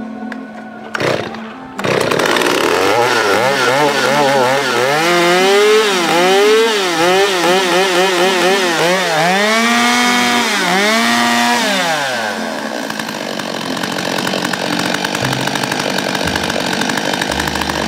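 STIHL 023 two-stroke chainsaw engine starting about two seconds in, then revved up and down repeatedly before settling to a steady idle about twelve seconds in.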